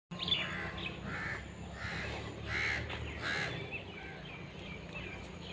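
Birds calling in the open: a run of about five repeated calls in the first three and a half seconds, over fainter chirping of smaller birds.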